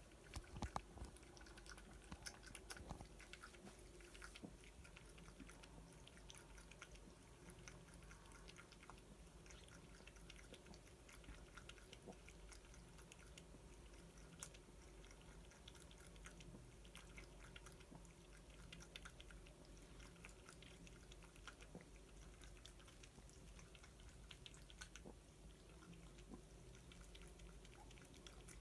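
Persian cat eating: faint, irregular chewing clicks, a little louder in the first few seconds.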